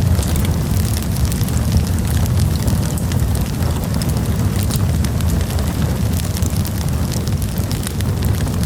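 Campfire burning: frequent small crackles and pops over a steady low rumble.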